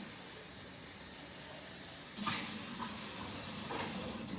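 Water running steadily from a kitchen tap, an even rushing hiss.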